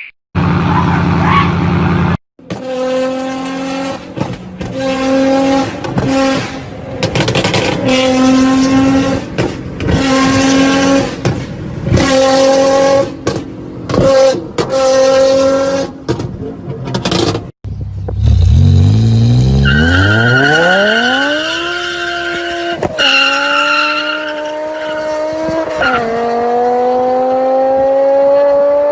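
Loud car exhausts in several short clips. First an engine is revved again and again in short bursts at a steady pitch, about once a second. Then a car accelerates hard, its pitch rising steeply and dropping back at two gear shifts.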